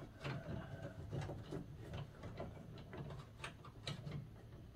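Hands working inside a car door cavity, routing a wiring harness and feeling for its connector: faint, irregular clicks, taps and rustles of plastic and wire.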